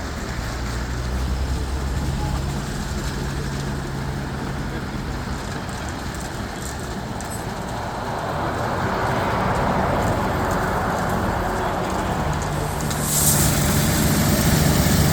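Rollover car wash gantry running, its motors humming steadily. A rushing sound builds from about eight seconds in, and a short hiss comes near the end.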